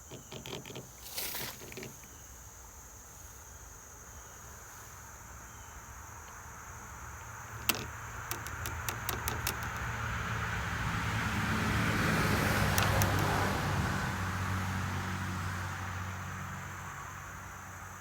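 A motor vehicle passing, its engine hum and road noise swelling to a peak about twelve seconds in and then fading away. Under it runs a steady high insect drone, and a few sharp clicks and taps come early and around eight to nine seconds in.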